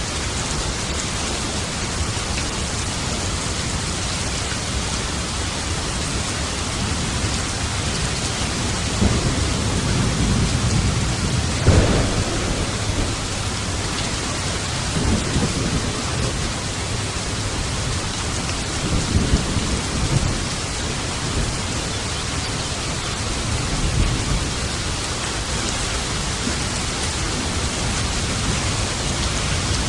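Steady rain falling through a thunderstorm, with thunder rolling in several times: a long rumble building to a sharper crack about twelve seconds in, then further low rumbles.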